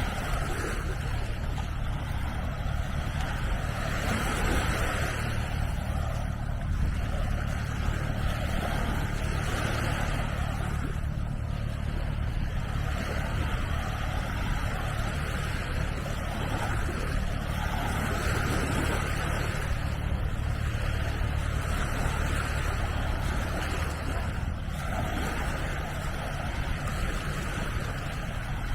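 Steady seaside ambience: wind rumbling on the microphone over the hiss of small waves on the shore, swelling and fading every few seconds.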